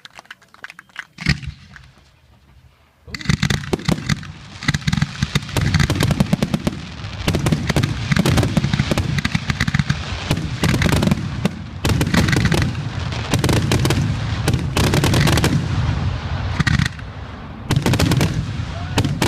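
Consumer fireworks going off: a single bang about a second in, then from about three seconds a rapid, unbroken barrage of crackling shots and bangs.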